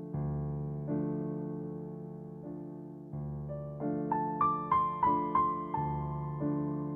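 Slow, gentle piano music: soft sustained chords with a short melody of higher notes in the middle.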